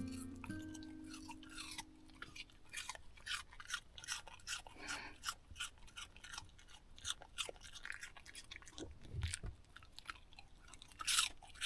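Irregular crunching and clicking, a few short crunches a second at low level, as the tail of guitar music dies away at the start.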